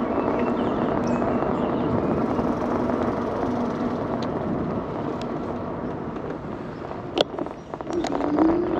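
Steady wind and rolling noise from an electric bike moving along a paved trail, picked up by a handlebar-mounted camera. Under it runs a faint low hum that rises in pitch near the end, and there is a sharp click about seven seconds in.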